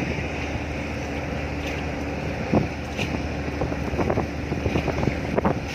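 Steady low drone of a ship's engine with wind buffeting the microphone, and a few scattered knocks, the loudest about two and a half seconds in.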